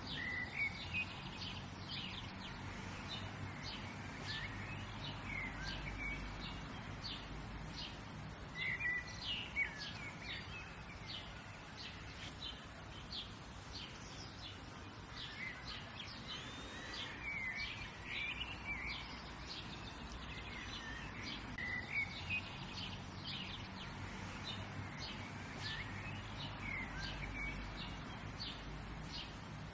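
Wild birds chirping and singing: many short, high chirps throughout, with a few longer song phrases now and then, over a low, steady background rumble.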